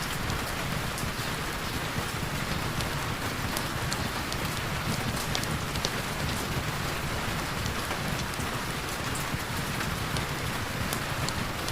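Heavy rain falling steadily, an even hiss with scattered sharp ticks of single drops.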